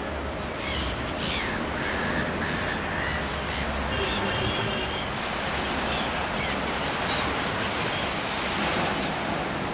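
Ocean surf washing steadily, with birds chirping and calling in short rising and falling notes over it.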